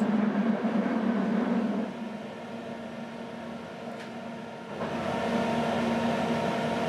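Quiet running noise heard inside a passenger coach of an intercity train rolling on welded rail: a steady low hum over a soft rumble, with no rail-joint clicks. It drops softer for about three seconds in the middle, then comes back.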